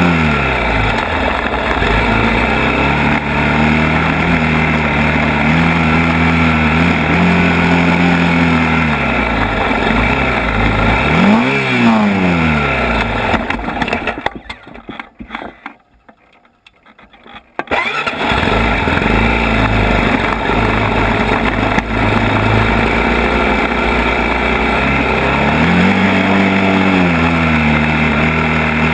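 ATV engine running under way, its revs rising and falling again and again with the throttle. About halfway through, the sound drops out almost to silence for around three seconds, then the engine picks up again.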